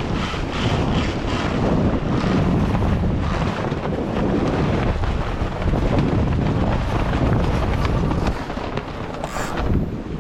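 Wind buffeting the action camera's microphone aboard a Tornado catamaran under sail: a steady, loud rumbling noise, with a brief high hiss near the end.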